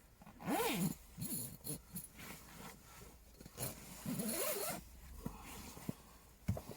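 A zipper pulled in two rasping strokes, one about half a second in and a longer one around the middle, its pitch rising and falling with the pull speed. A short knock follows near the end.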